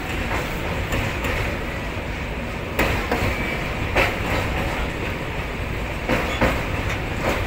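Train running, heard from aboard: a steady rumble with sharp clicks of the wheels passing over rail joints, several in close pairs, every second or two.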